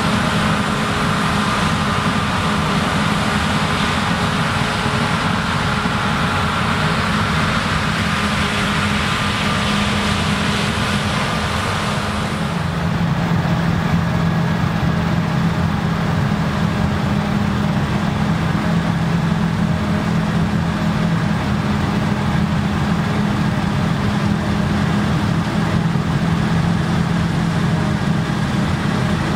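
Claas Lexion combine harvester running steadily while harvesting rye: a constant engine drone under the hiss of the threshing and chopping gear. About twelve seconds in, the high hiss falls away and the engine note settles slightly lower.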